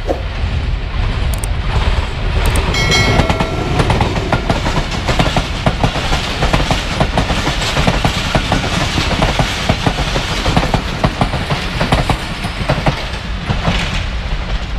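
A passenger train passing at speed: its horn sounds briefly about three seconds in, then the wheels of the coaches clatter rapidly over the rail joints as they rush by.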